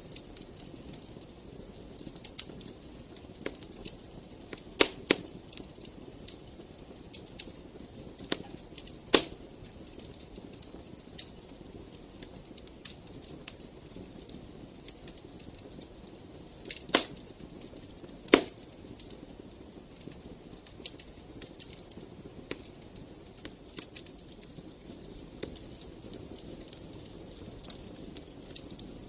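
Wood fire crackling in a fireplace: a steady soft hiss under scattered sharp pops and snaps, the loudest about five, nine, seventeen and eighteen seconds in.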